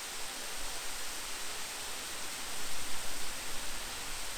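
Steady rushing of the Great Waterfall in Sofiyivka Park, an even hiss of falling water.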